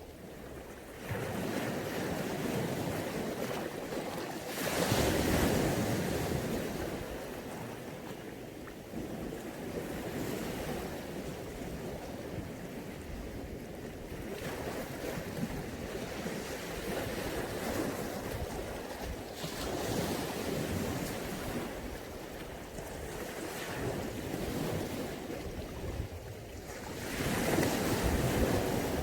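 Mediterranean Sea waves washing in as surf, a steady rush that swells with each wave: about a second in, more strongly around five seconds in, again around twenty seconds, and loudest near the end.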